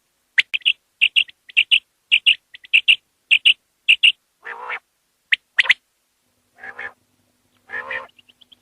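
Common quail calling: a rapid run of short, sharp, high notes in twos and threes, followed by three lower, raspy notes about half a second long, about halfway through and near the end.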